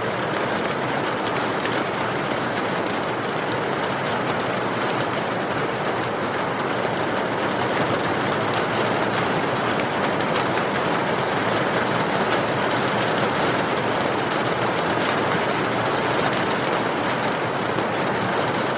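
Steady heavy rain falling, with small crackles of a wood fire burning in a fireplace.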